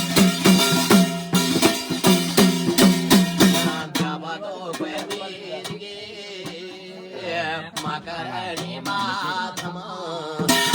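Garhwali jagar devotional music: drums beating steadily over a sustained drone for about four seconds, then a man singing a wavering, ornamented melody with only light percussion, before the full instrumental beat returns at the end.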